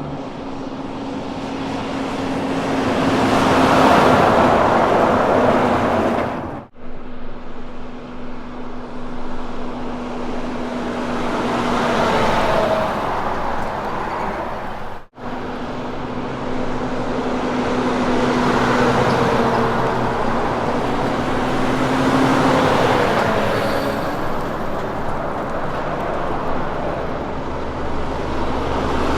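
Kenworth K200 road trains driving past one after another, their diesel engines droning and the tyre and road noise swelling and fading as each goes by. The sound cuts off abruptly twice, about seven and fifteen seconds in, where one pass gives way to the next.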